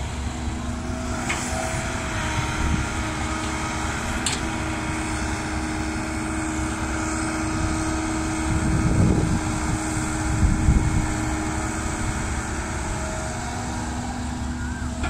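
Diesel engines of an excavator and dump trucks running at an earthmoving site, a steady drone with two louder low surges about nine and eleven seconds in.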